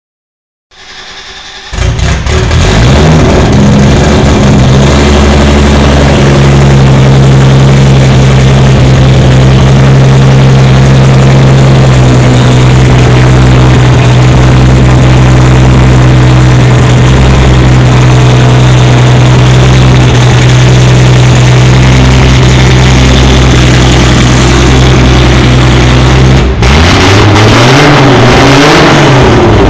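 1994 Toyota Supra's turbocharged inline-six cranks briefly on the starter, catches about two seconds in and settles into a loud, steady idle through a custom 4-inch straight-pipe exhaust. Near the end the throttle is blipped a few times, the note rising and falling.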